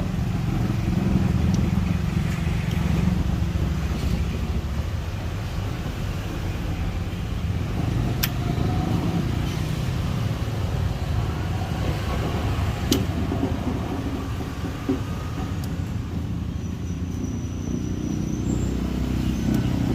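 Steady low rumble of motor vehicles running, with two sharp clicks about 8 and 13 seconds in.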